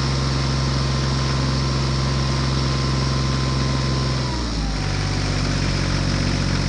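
An engine idling steadily with a low, even hum, which drops slightly in pitch about four and a half seconds in.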